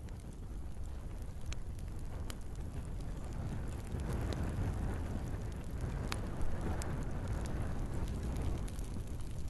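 Wood fire in a fireplace burning: a low, steady rumble of flames with scattered sharp crackles and pops from the logs. The rumble grows fuller about halfway through.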